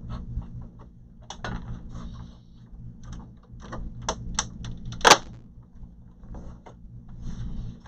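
Plastic snap clips on an all-in-one PC's back cover clicking and popping loose as the cover is pried open: a run of small irregular clicks, with one sharp, loud snap about five seconds in.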